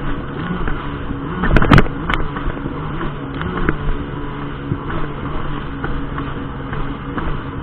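Personal watercraft engine running steadily at speed, its pitch wavering a little. A brief loud knocking burst comes about one and a half seconds in.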